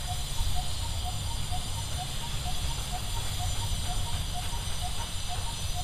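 A bird repeats a short single note about twice a second over a steady low rumble and hiss of outdoor ambience.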